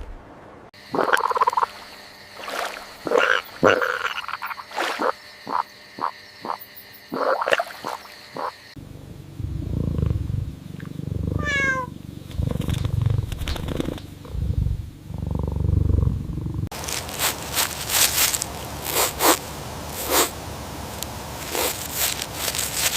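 A string of recorded animal sounds in three parts, cutting abruptly from one to the next: short separate calls at first, then deep low calls, then a rapid run of sharp clicks.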